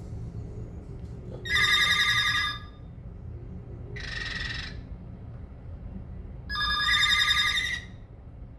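Cockatiel whistling three trilled phrases, the first and last loud and about a second long, the middle one shorter and fainter.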